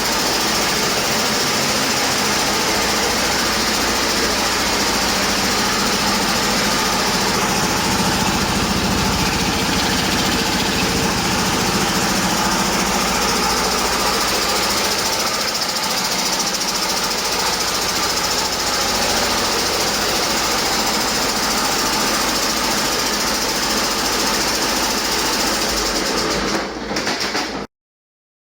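Detroit Diesel DD15 inline-six diesel engine running steadily on a test run, in a condition the seller calls running excellent. The sound cuts off abruptly near the end.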